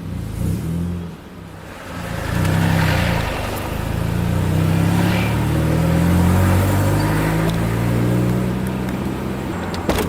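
Honda F22B1 2.2-litre VTEC four-cylinder engine accelerating hard under load, heard from the cabin; it eases off briefly, then gets louder about two seconds in and keeps pulling.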